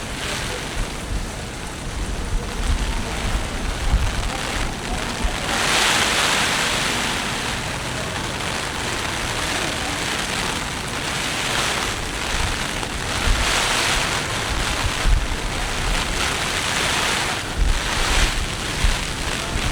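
Heavy typhoon rain hissing, swelling into stronger downpours several times, with gusts of wind buffeting the microphone in low rumbles.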